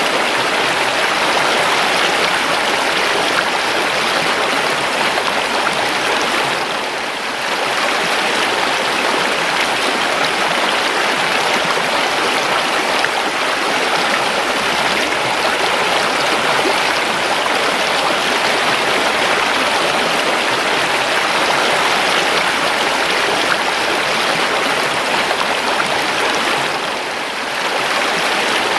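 A river's water flowing and rushing steadily over its bed, as an even hiss and burble, briefly softening twice.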